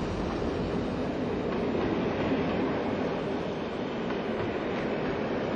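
A train running on the line, a steady rumble that swells slightly about two seconds in.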